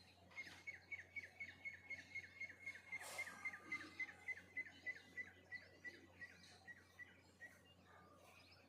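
A bird calls a long, steady series of short, identical notes at about four a second, slowing slightly toward the end. There is a brief swish about three seconds in.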